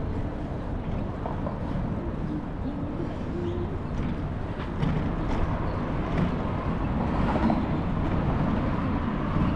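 Outdoor street noise with a steady low rumble, which grows a little louder about five seconds in.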